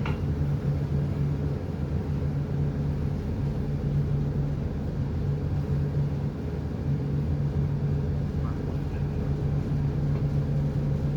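Marine diesel engine running steadily, a low, even hum.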